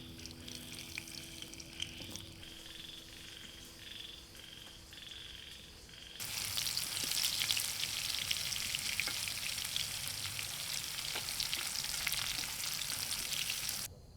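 Frogs croak in an even rhythm, about one call every two-thirds of a second. About six seconds in, a loud crackling sizzle of food frying in hot oil starts suddenly, then cuts off just before the end.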